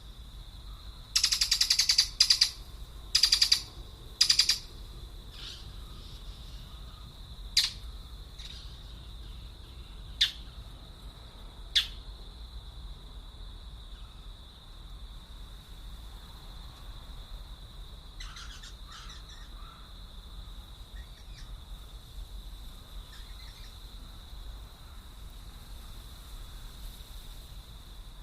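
Birds calling: four loud harsh calls in the first few seconds, then a few sharp short chirps and some fainter calls, over a steady high-pitched whine.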